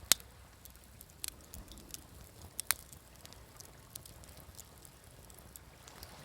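Wood fire crackling, with sharp pops, the loudest just after the start and another near the middle. Faint wash of sea waves underneath.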